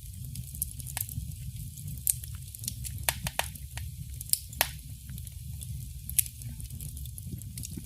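Fire in a fireplace crackling: irregular sharp pops and snaps, the loudest about six seconds in, over a steady low rumble of the flames.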